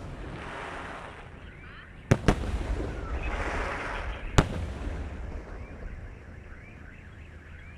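Fireworks going off: two sharp bangs close together about two seconds in and another about four and a half seconds in, with crackling between them, then dying down.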